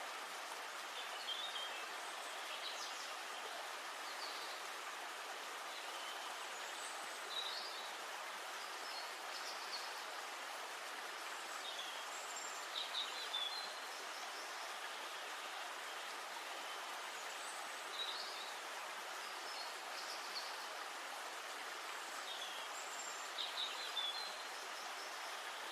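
Steady rush of flowing river water, with small birds giving short chirps every few seconds.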